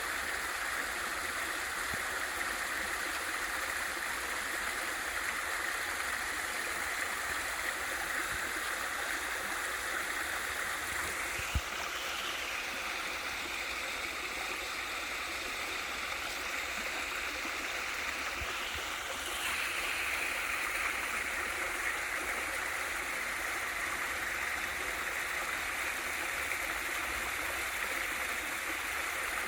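Water from a small valley waterfall rushing and splashing in a steady hiss. There is a faint click about twelve seconds in, and the highest part of the hiss thins for several seconds after it before coming back.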